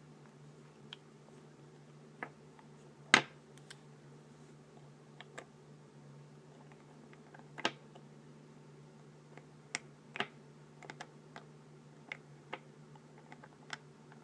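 Scattered light clicks and taps of a small cosmetics container being handled and opened, with one sharper click about three seconds in and a quicker run of small clicks near the end. A low steady hum lies underneath.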